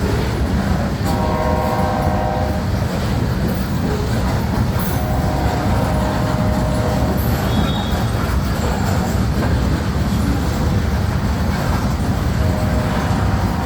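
Diesel freight locomotive's air horn sounding three blasts of a multi-note chord, the second the longest and the third starting near the end, over the steady rumble of the passing train.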